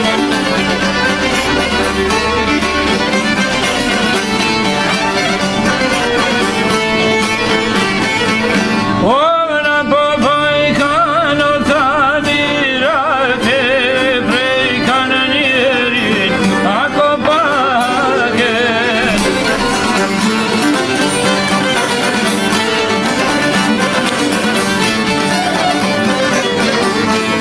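Albanian folk song played by a band with violin and plucked strings, with singing. About a third of the way in the full band drops back to a lone, heavily ornamented melody line, and the full band comes back in a little past two-thirds of the way through.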